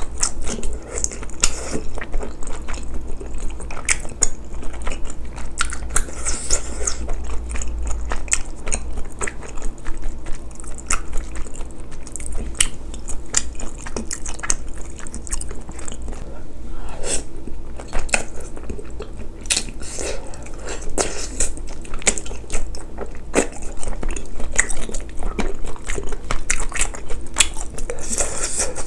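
Close-miked eating: a person chewing and biting spicy braised chicken and glass noodles, with many wet smacking mouth clicks throughout and a steady low hum underneath.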